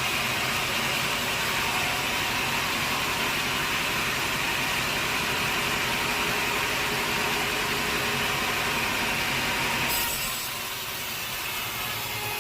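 Sawmill saw running through a teak log, a steady loud hissing whine. The sound drops suddenly about ten seconds in and continues more quietly.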